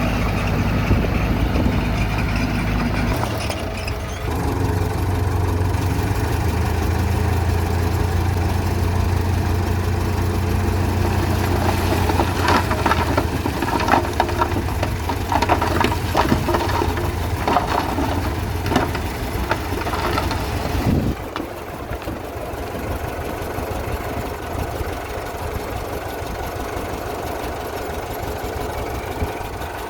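Diesel engine of heavy earthmoving machinery running, with a run of sharp metallic clanks and knocks from about twelve to twenty seconds in. The sound changes abruptly about three seconds in and again about twenty-one seconds in, where it becomes quieter.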